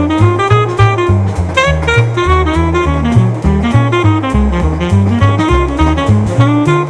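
Light jazz: a saxophone melody over a walking bass line and drum kit keeping a steady beat.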